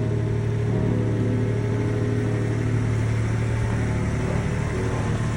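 Ford F-150 Tremor pickup's engine idling steadily after a cold start in about minus 35 degree cold, a constant low hum with no revving.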